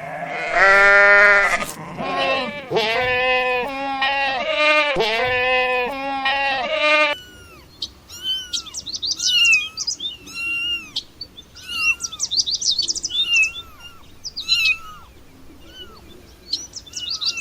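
An animal crying in loud, bleat-like calls, one long call followed by about five shorter ones, for roughly seven seconds. Then quick, high, falling chirps carry on to the end.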